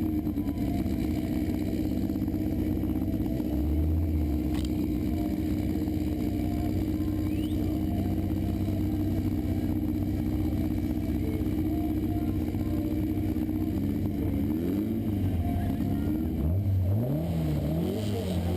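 Car engines running at a steady idle, then revved up and down repeatedly in the last few seconds.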